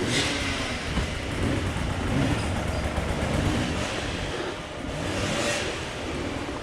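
Off-road dirt bike engine revving up and falling back repeatedly as the throttle is worked, over a steady rushing noise.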